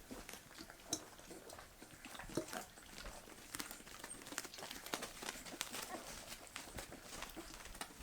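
Bull terrier puppies, about three weeks old, eating soft meaty puppy food: faint, scattered smacking and licking clicks.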